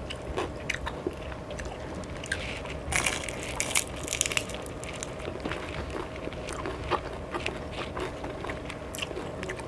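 A person eating close to the microphone: irregular crunching and chewing of crisp food, loudest about three to four seconds in.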